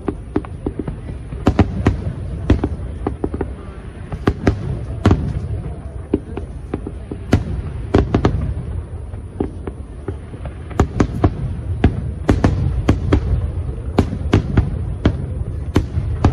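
Fireworks display: a string of sharp bangs from shells bursting at irregular intervals, sometimes several close together, over a continuous low rumble.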